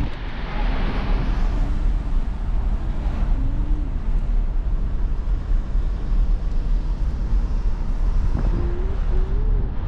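A train passing with a steady, heavy rumble, mixed with wind buffeting the microphone.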